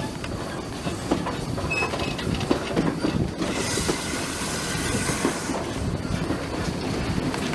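Steam-hauled heritage train running along the line: a steady rumble with repeated clicking of the wheels over the rail joints, and a burst of hissing a little past halfway through.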